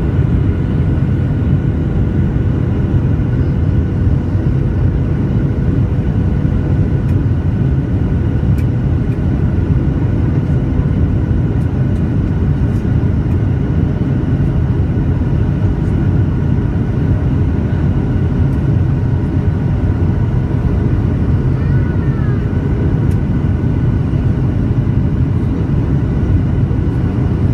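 Steady low rumble of an airliner's jet engines and airflow heard inside the passenger cabin, with faint steady whining tones above it and no change in level.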